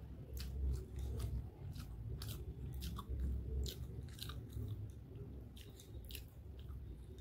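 Person eating a mouthful of noodles: close-up chewing with many short, wet mouth clicks.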